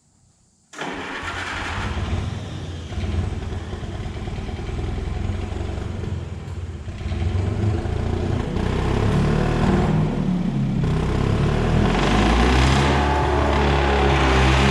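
John Deere 720 two-cylinder diesel being started: a sudden start of cranking about a second in, then the engine catches and runs, settling into a steady, louder run over the last few seconds, a sign the no-start fault has been cured.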